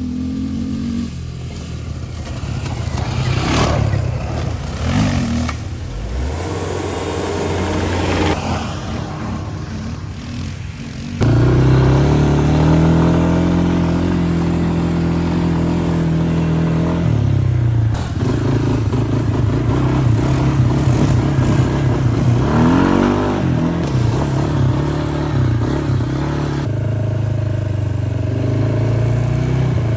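Utility ATV engines running and revving, the engine note rising and falling with the throttle, with a sudden step up in loudness about a third of the way in.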